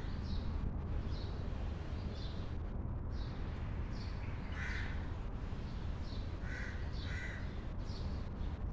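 Birds calling in short calls repeated every second or so, with a few louder calls in the second half, over a steady low rumble.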